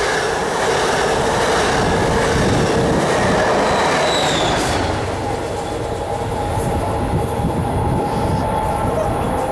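Passenger train passing close by: steady rolling wheel-and-rail noise with a brief high wheel squeal about four seconds in.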